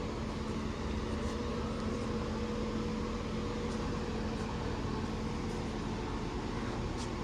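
Class 390 Pendolino electric train running: a steady rumble with a constant low hum.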